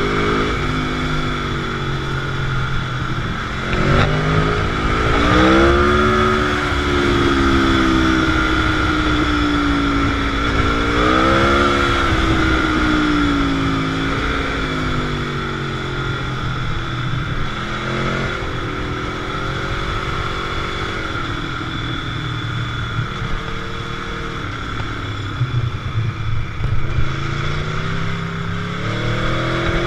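Motorcycle engine running under way, its pitch rising several times as it accelerates and falling as it eases off.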